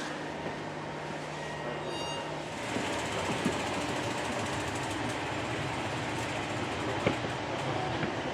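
Passenger train heard from on board: a steady low hum, then louder, even running noise from about two and a half seconds in.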